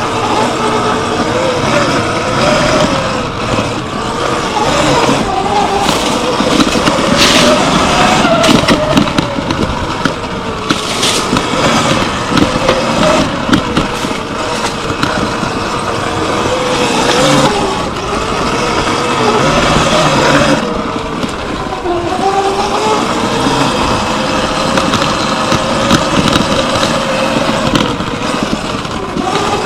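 Surron X Light Bee electric dirt bike ridden on trails: its electric motor whines, the pitch rising and falling as the rider speeds up and slows down, over steady wind noise on the helmet-mounted microphone and scattered knocks and rattles from the rough ground.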